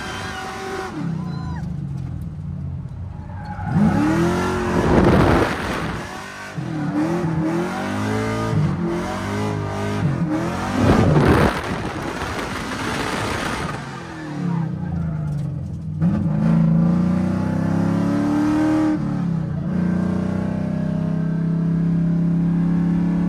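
Drift car engine revving hard, its pitch sweeping up and falling back again and again, with surges of tyre squeal about four and eleven seconds in. Later it holds a steadier, slowly climbing note.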